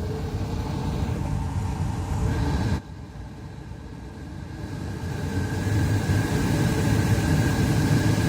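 Ford Focus 2 heater blower fan running, a rushing air noise with a faint steady high whine. It swells, drops off suddenly about three seconds in, then builds up again and holds steady. The motor has just been cleaned with a quick-evaporating spray cleaner to cure its squeal.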